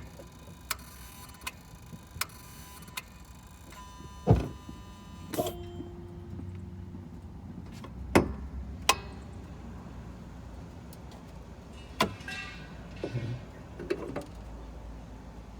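Sharp clicks and clacks from the engine bay of a Mitsubishi Delica D5 diesel switched off: first a few light, evenly spaced clicks, then louder clacks a second or more apart and a short rattle near the end. This is the kind of after-shutdown clicking from some unknown mechanism that the owner cannot explain.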